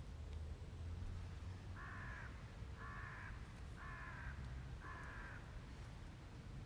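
A bird calling four times, short calls about a second apart, over a low steady hum.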